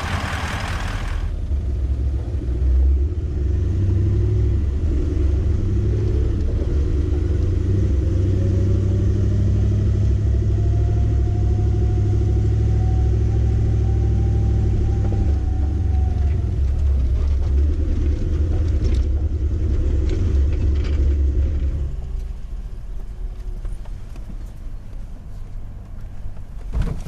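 Toyota LandCruiser 200 Series V8 turbo-diesel 4WD driving along a gravel forest track: a deep rumble of engine and tyres, with the engine note climbing slowly and then falling away. The rumble eases off noticeably near the end.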